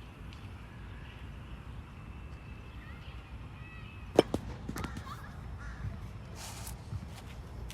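A bird calls a few short times over a steady low rumble, with a sharp click about four seconds in.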